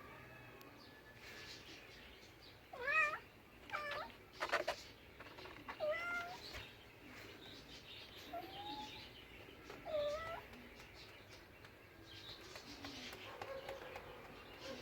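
A domestic cat meowing, about five short meows with rising and falling pitch, with a sharp click between the second and third meow.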